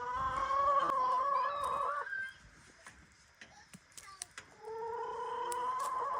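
A hen giving two long, drawn-out calls: the first lasting about two seconds, the second starting about four and a half seconds in and running about a second and a half.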